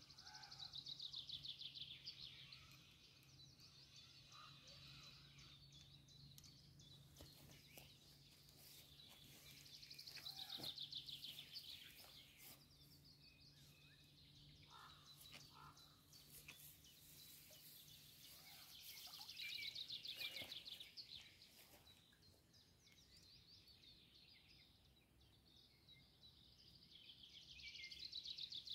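A songbird singing faintly: a short, fast trill that falls in pitch, repeated four times about every nine seconds.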